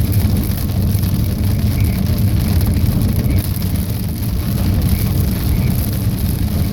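Thunderstorm rain falling, with a fine patter over a steady low rumble.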